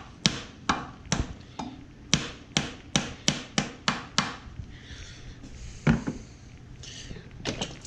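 Hammer tapping on a stuck part of a Polaris RMK 800 snowmobile engine to knock it loose. There are about a dozen quick blows, two or three a second, for the first four seconds, then one hard blow and a couple more near the end.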